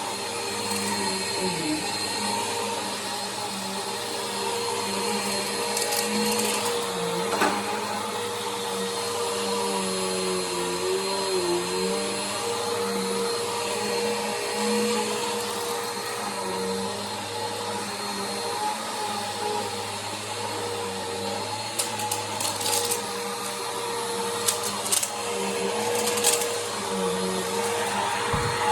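Bissell Power Force upright vacuum cleaner running steadily, its motor giving a constant hum with a held tone. Scattered short clicks and rattles come through, bunched in the last few seconds.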